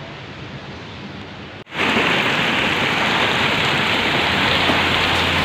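Heavy rain falling, a steady hiss; about a second and a half in it jumps abruptly to a much louder, closer downpour.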